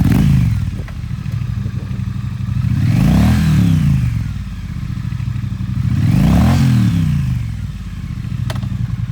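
2018 Triumph Street Twin 900's parallel-twin engine running through an aftermarket Vance & Hines exhaust. The revs drop to idle at the start, then the throttle is blipped twice, about three seconds apart, each rev rising and falling back to idle. There is a sharp click near the end.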